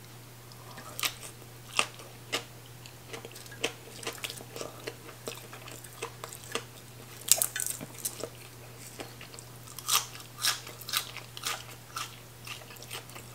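Close-miked chewing with irregular crisp crunches and mouth clicks, loudest a few times in the second half, as a bite of food is chewed and then fresh green onion stalks are bitten.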